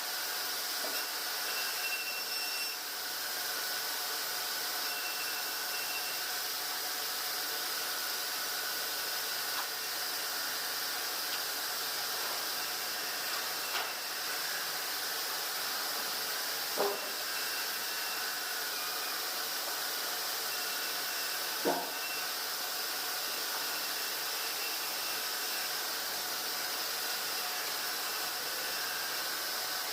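Steady hissing noise with no change in level, broken by two brief sharp sounds about five seconds apart in the second half.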